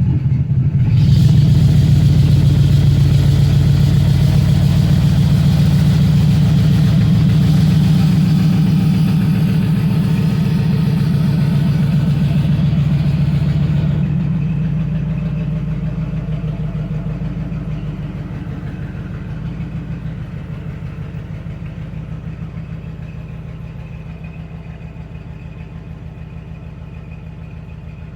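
1961 Cadillac 390 V8 running loud and steady on a blown muffler, one bank exhausting through a straight pipe. The engine note fades slowly over the second half.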